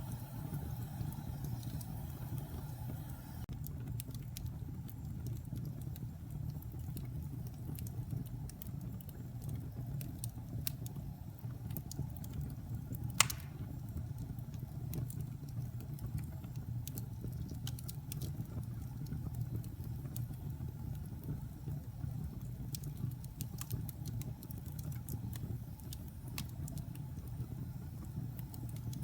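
Wood logs burning in a fireplace: a steady low rumble of the flames with scattered sharp crackles, and one loud pop from the wood about halfway through.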